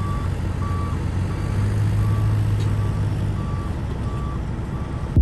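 A heavy vehicle's backup alarm beeping steadily at one pitch, over the low, steady running of a diesel engine.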